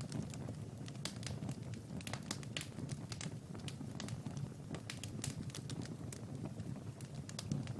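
Wood fire crackling, with many irregular sharp snaps and pops over a steady low rumble of the flames.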